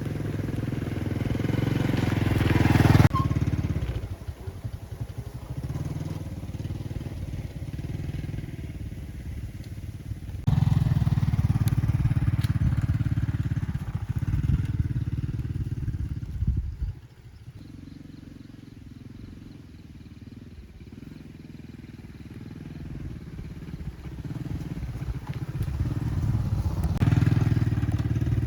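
A motor vehicle engine running, heard in several segments that start and stop abruptly: loud at first, dropping suddenly about three seconds in, jumping back up about ten seconds in, falling again about seventeen seconds in and rising near the end.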